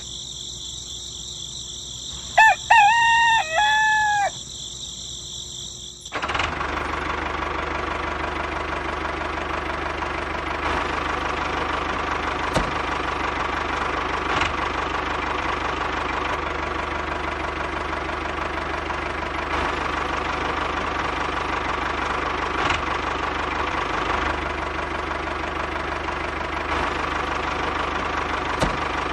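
A rooster crows once, about two to four seconds in, over a steady high-pitched background. From about six seconds a small diesel-type engine runs steadily with a knocking chug and a few sharp clicks, the running sound of the DIY model tractor.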